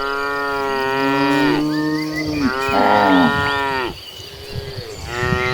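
Several cattle mooing, long drawn-out calls that overlap and follow one another, with a short pause before another cow starts mooing near the end.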